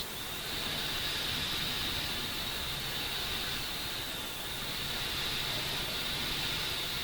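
Steady hiss with a faint low hum; the high hiss swells and fades slowly over a few seconds.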